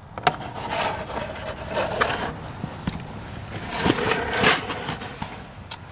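Irregular knocks, scrapes and rustling as a drain pan of used engine oil is handled and tipped into a barrel, with a sharp click about a quarter second in.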